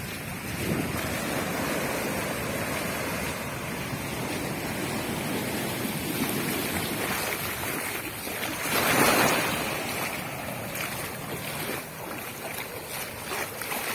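Ocean surf washing onto a beach, a steady rush of breaking waves with one louder wave crash about nine seconds in.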